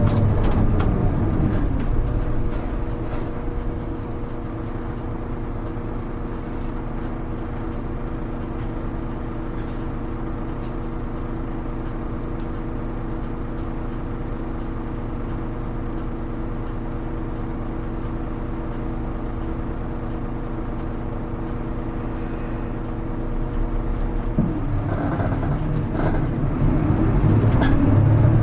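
Hino Rainbow HR (KL-HR1JNEE) city bus, heard from inside the cabin: its diesel engine winds down as the bus slows, idles steadily for about twenty seconds while stopped, then revs up as the bus pulls away near the end.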